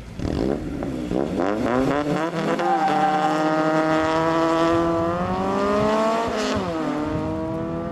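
Two Honda cars' engines revving hard side by side at the start of a drag race: several quick up-and-down revs, then a long climb in pitch as they accelerate away, a gear change about six and a half seconds in, and the pitch climbing again.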